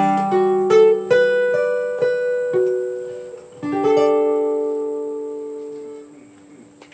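Guitar playing the closing notes of a song: a few single plucked notes, then a final chord a little under four seconds in that rings out and fades away.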